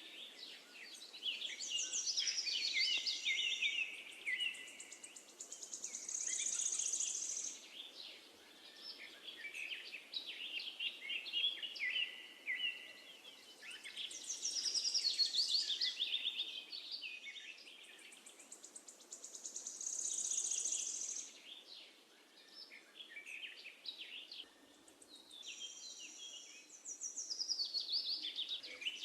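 Songbirds singing a continuous chorus of chirps and trills over a faint steady background hiss. The same run of calls comes round again about every thirteen seconds, like a looped nature-sound track.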